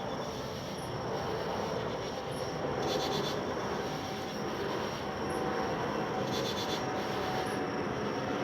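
Steady rumble of distant vehicle noise, with a thin high steady whine and two brief high pulsing sounds about three and six and a half seconds in.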